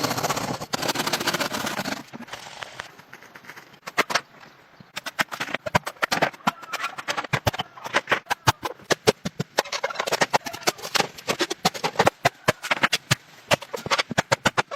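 A rapid, irregular run of sharp knocks, several a second, beginning about four seconds in, after a short stretch of rushing noise at the start.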